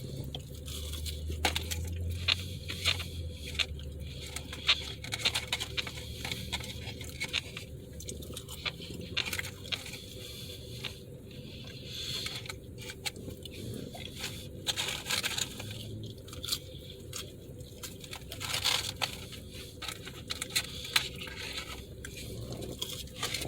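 Close-up mouth sounds of a person chewing and crunching fast-food fries, with irregular small clicks, scrapes and crackles of food and packaging being handled.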